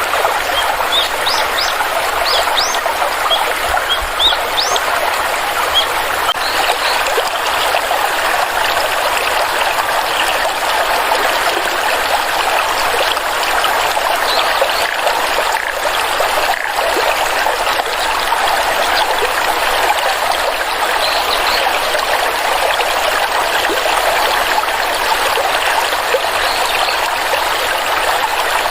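A stream of water flowing and trickling steadily. Short high chirps sound over it, most of them in the first few seconds and a few scattered later.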